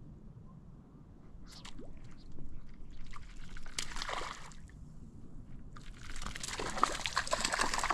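Water splashing and sloshing in two bursts, the first about three seconds in and a louder one from about six seconds in.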